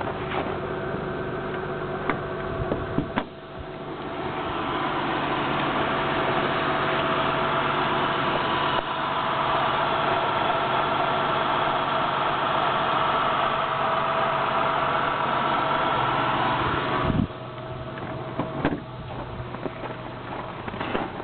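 2001 Acura CL's 3.2-litre V6 VTEC engine idling steadily, heard close up over the engine bay. It grows louder about four seconds in and falls away about seventeen seconds in. A few clicks and knocks come before and after.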